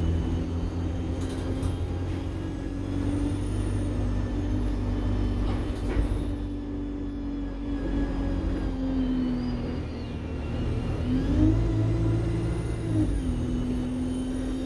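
Alexander Dennis Enviro200 bus engine running, with a faint high turbo whine that rises and falls above the engine note. The engine pitch dips about two-thirds in, climbs sharply a moment later and falls again near the end, and there is a single knock about 6 seconds in.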